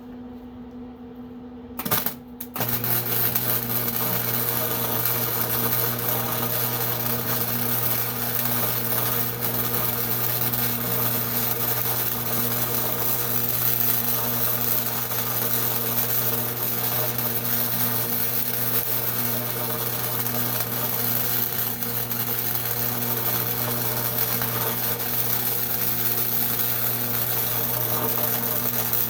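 Electric arc welding: a long, steady crackling and hissing run that starts about two and a half seconds in, just after a brief first strike of the arc, and stops at the very end.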